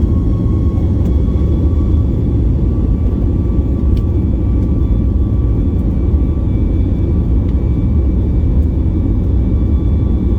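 Boeing 737 MAX 8's CFM LEAP-1B turbofan engines at takeoff power, heard inside the cabin: a loud, steady low rumble with a high engine whine on top that settles to a steady pitch in the first second or two.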